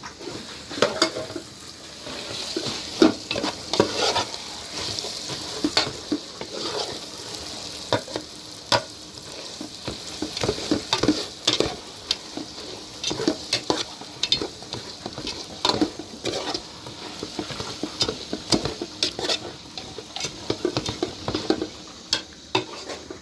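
Food frying in a pan, a steady sizzle, while a utensil stirs it with many irregular clinks and scrapes against the pan.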